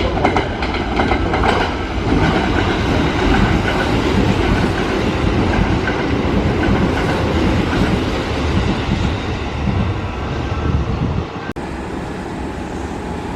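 Kintetsu electric train running loudly through the station platform, a dense steady rumble of wheels and motors. It cuts off abruptly about eleven and a half seconds in, leaving a quieter steady background.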